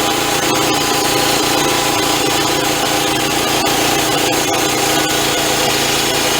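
Band sawmill cutting through a log, its engine running steadily under the hiss of the blade in the wood.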